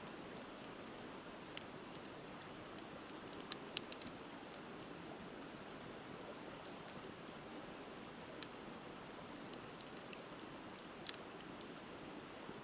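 Wood campfire crackling with a few scattered sharp pops, the loudest about four seconds in, over the steady rush of a river.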